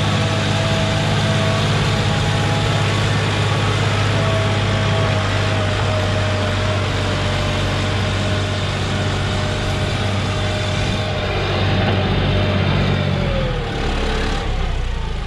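John Deere 5065E tractor's diesel engine running steadily, then its pitch drops about thirteen seconds in as the revs come down.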